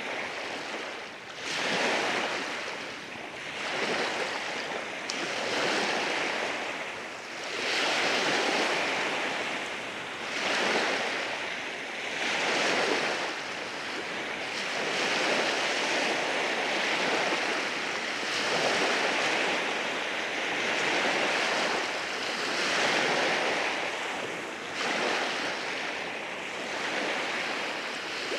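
Surf breaking and washing over rocks on a beach, swelling and easing every few seconds, with some wind on the microphone.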